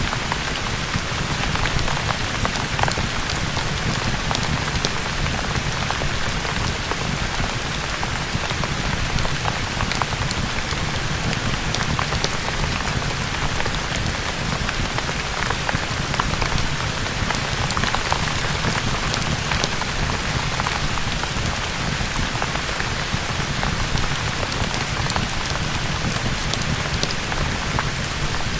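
Steady rain falling on a surface, an even hiss with many scattered sharp ticks of drops.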